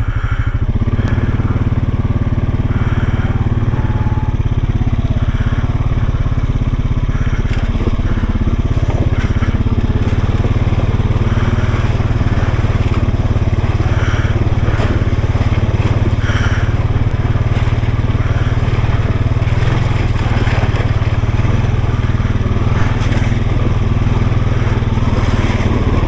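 ATV engine running steadily at low speed, with a constant low drone, while the machine crawls over rough, washed-out ground; scattered crunching and rattling of the tyres and chassis over gravel and debris sits on top.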